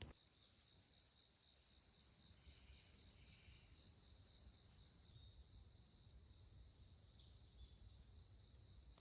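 Faint cricket chirping: a steady high-pitched pulse repeating about five times a second.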